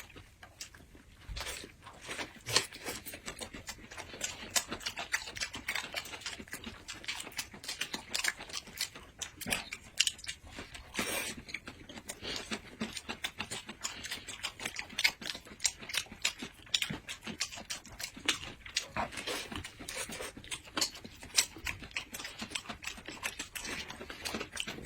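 Close-miked eating sounds: people chewing and biting food, a steady stream of small irregular crunches and clicks.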